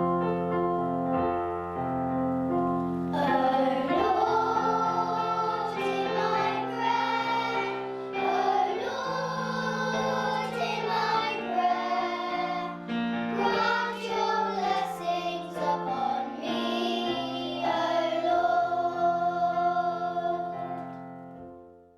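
Children singing a song with piano accompaniment. The piano plays alone for the first three seconds before the voices come in, and the music fades out at the end.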